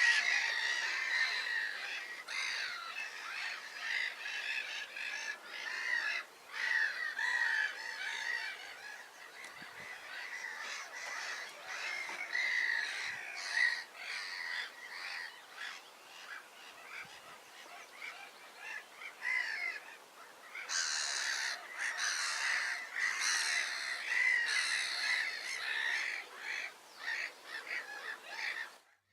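A flock of waterbirds calling continuously: many short, overlapping calls, busier in the last third.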